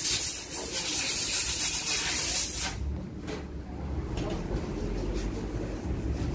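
A loud steady hiss that cuts off suddenly about two and a half seconds in, leaving a low steady rumble.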